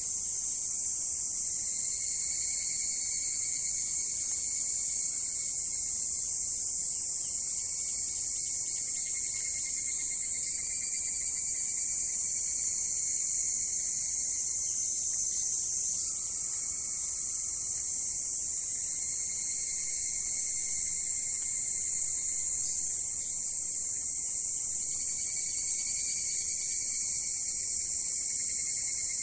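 Chorus of insects singing: a steady, dense high-pitched shrilling, with a lower pulsing trill that comes in several long phrases of a few seconds each.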